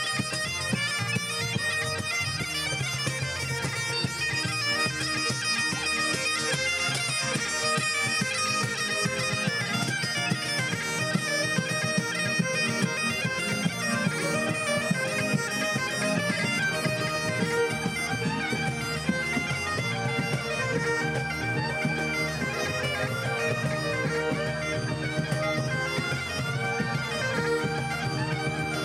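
Scottish Highland bagpipes playing a tune over their steady drones.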